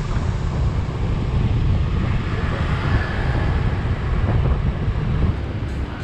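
Wind buffeting the microphone while on the move, with steady road and vehicle noise underneath.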